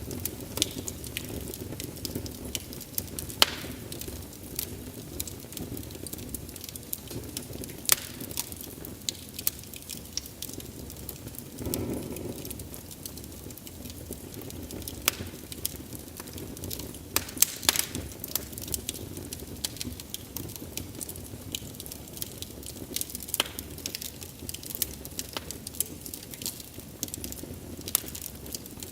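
Wood fire burning with frequent, irregular sharp crackles and pops over a low steady rumble of flame, with a brief louder whoosh about twelve seconds in.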